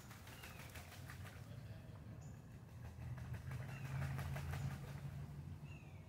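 Birds giving a few short, falling chirps over a steady low rumble, with stretches of rapid fine ticking early on and again around the middle.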